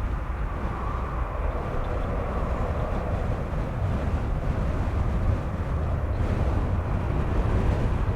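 Jet airliner engine noise: a steady rumble that grows slowly louder.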